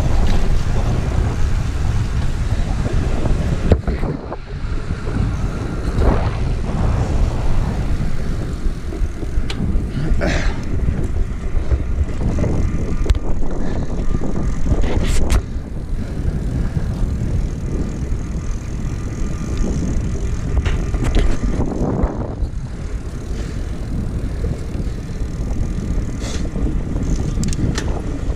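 Wind rushing over the microphone of a camera carried on a moving bicycle: a loud, steady low rumble, with a few sharp clicks or knocks scattered through it.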